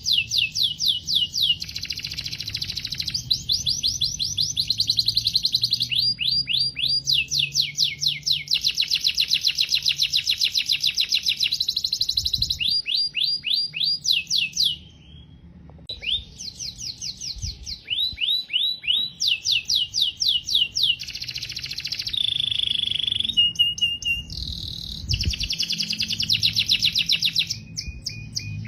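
Domestic canary singing: long song of rapid trills and repeated chirps, phrase after phrase, with a brief pause about halfway through.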